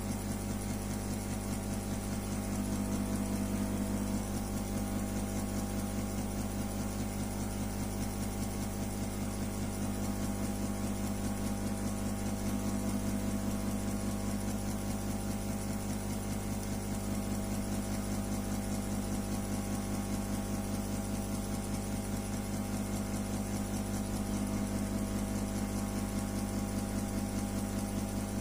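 A steady machine hum with a fast, even pulse and an unchanging pitch.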